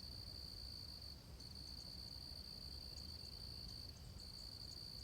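Faint, steady high-pitched insect trill with short breaks about a second and a half in and again about four seconds in, over a low background rumble.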